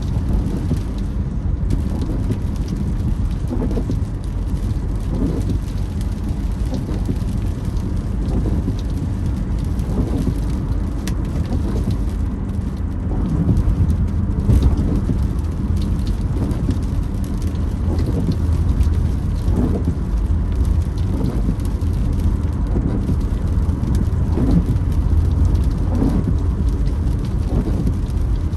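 Rain drumming on a car as it drives over a wet road: a steady low rumble of tyres and engine heard from inside the cabin. The windscreen wipers creak across the glass every second or two.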